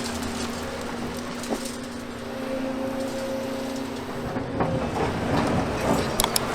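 Volvo crawler excavator's diesel engine running steadily. Near the end come a few sharp knocks and clatter of demolition rubble.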